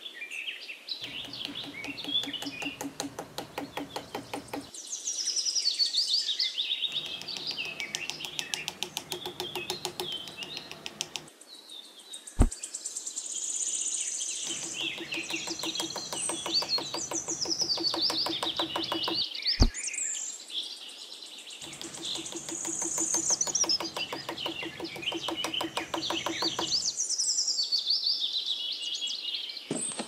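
Small birds chirping and twittering throughout. Beneath them a low, rattling mechanical buzz comes and goes in four stretches of a few seconds each, with two sharp clicks in the pauses.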